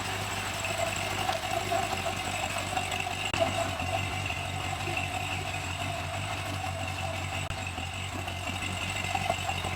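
A vehicle engine idling steadily, with a faint high whine running over it.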